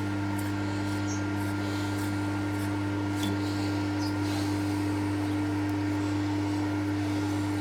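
Milling machine running steadily: a constant electric motor and gearbox hum that holds one pitch throughout, with a few faint light ticks.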